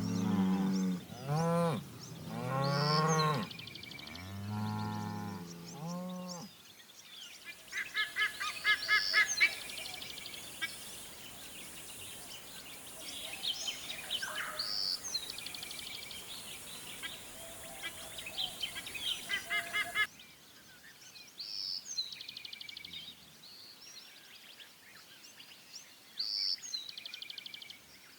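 Several deep, drawn-out animal calls, each bending in pitch, fill the first six seconds. Then come wild birds calling in quick repeated chirps and trills over a faint outdoor hiss. The background drops abruptly about two-thirds of the way through, and softer bird calls carry on after that.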